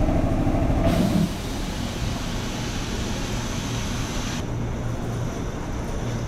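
Electric train rumbling at a station platform, with a hiss that starts about a second in and cuts off suddenly after about three seconds, leaving a steady low rumble with a hum.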